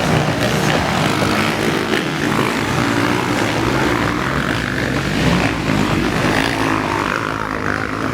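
Motocross dirt bike engines running on the track, a steady mixed engine drone.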